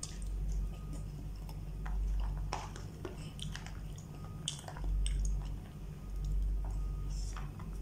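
A man chewing and biting a mouthful of rice and chicken close to the microphone, with irregular wet mouth smacks and clicks, over a steady low hum.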